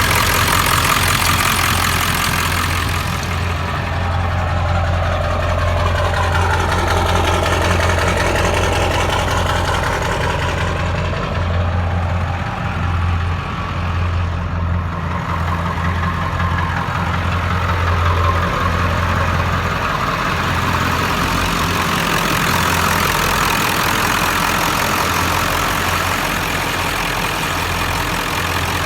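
Ford 7.3 L Power Stroke turbo-diesel V8 idling steadily shortly after a cold start, with a slight rise and fall in its higher tones in the first several seconds.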